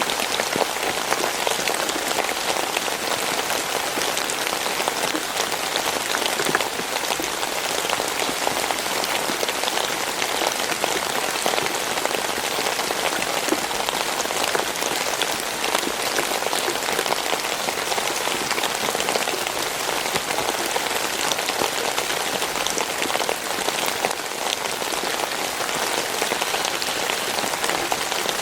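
Steady rain falling on a surface, a dense even spread of small drop hits with no letup.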